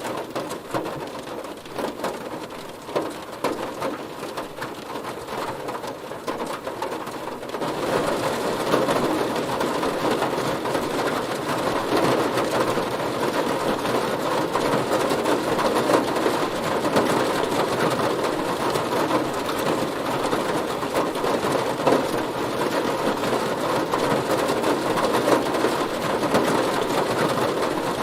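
Heavy rain hitting a car's body, with separate drops pattering at first, then about eight seconds in becoming a louder, denser downpour.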